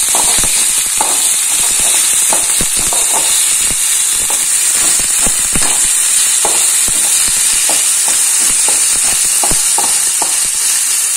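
Ginger-garlic paste sizzling in hot oil in a metal kadai, stirred with a slotted metal spatula that scrapes and clicks against the pan at irregular intervals over a steady frying hiss.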